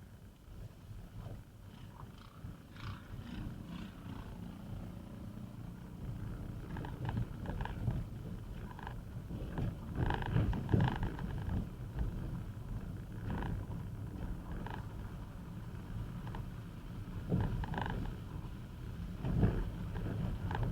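Low, steady rumble of a car driving, engine and road noise, swelling over the first few seconds, with scattered short knocks and thuds.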